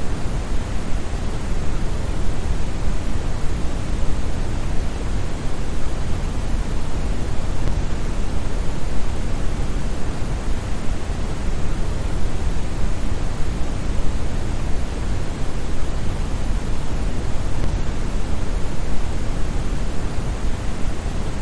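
Steady synthetic brown noise: an even, unchanging hiss weighted toward the bass, deep and rumbling like a distant waterfall.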